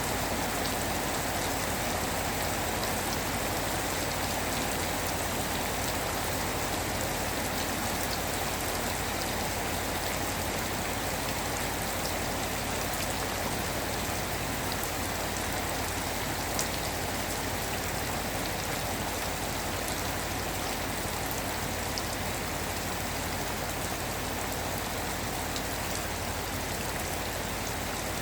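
Steady rainfall: an even hiss of rain with scattered individual drop ticks, and one sharper drop click partway through.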